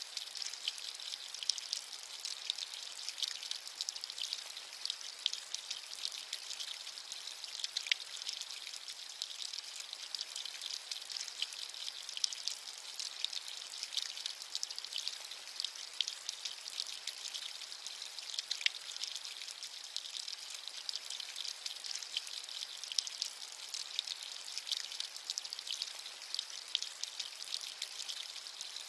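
Steady rain: a dense, even patter of many small drops with a hissy, high tone and hardly any low rumble.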